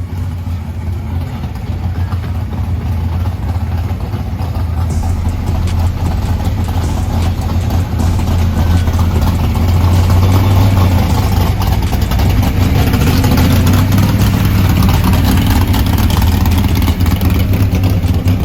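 A car engine running loudly with a heavy low rumble, growing louder over the first half and then holding steady.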